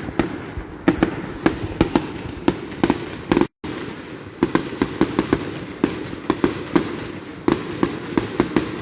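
Fireworks display: a rapid, irregular string of sharp firework bangs and pops, several a second. The sound cuts out for an instant about three and a half seconds in.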